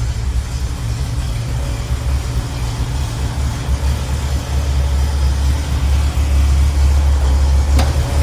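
Small-block 350 V8 with headers idling steadily, a low even rumble, with a single faint click near the end.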